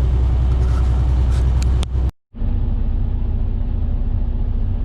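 Semi-truck engine and cab rumbling steadily inside the cab, with a few light clicks near two seconds in. A brief cut to silence follows, then a steadier engine drone with a regular pulse.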